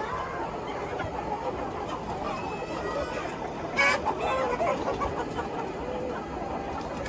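A large flock of chickens clucking and calling over one another without a break, with one loud, sharp squawk about halfway through.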